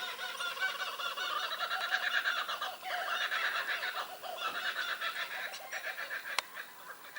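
Birds calling in a loud, rapid chattering chorus, dying away about six seconds in.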